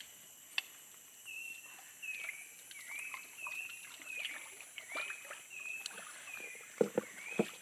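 A bird repeating a short high whistled call, a level note and then a dipping, rising one, about twice a second, over a steady high whine. Light clicks are scattered through it, and two sharper knocks near the end are the loudest sounds.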